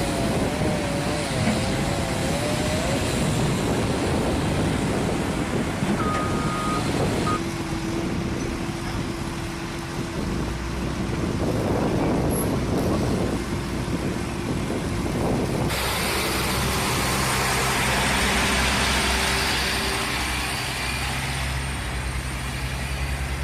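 Outdoor field sound of trucks and other heavy vehicles with their engines running, in several separate shots, with a steady low engine hum in the later part and a short electronic beep about six seconds in.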